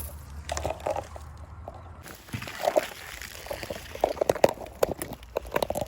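Rustling and irregular snapping and crackling of scrub and dry vegetation as someone pushes through undergrowth.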